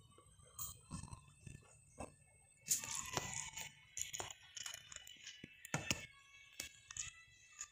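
Someone eating close to the microphone: chewing and mouth sounds, with short clicks of a metal spoon against the bowl, and a denser, louder stretch of chewing about three seconds in.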